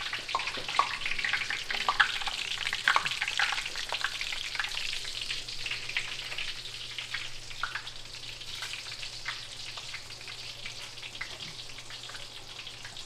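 Hot oil in a frying pan sizzling and popping as egg-and-flour battered bass fillets go in to fry. Sharp pops come thickest in the first few seconds, then the sizzle settles a little.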